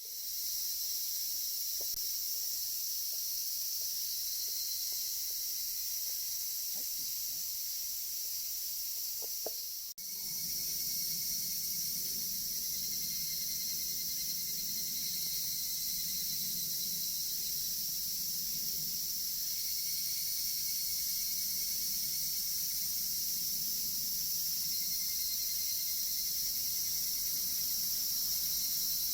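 Dense chorus of cicadas: a steady, shrill, high-pitched drone. It dips briefly about ten seconds in, and after that a faint low rushing sound joins underneath.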